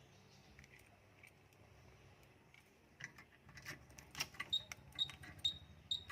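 Keys rattling and clicking at the van's ignition, then a short high electronic beep repeating about twice a second.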